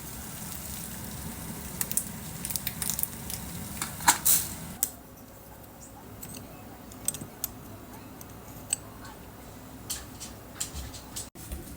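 Cooking in a kitchen: a steady sizzle with sharp clicks and taps of utensils, the sizzle dropping away about five seconds in while the taps carry on.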